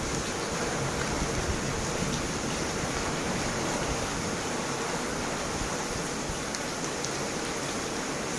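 Heavy rain falling steadily: an even, unbroken rushing wash.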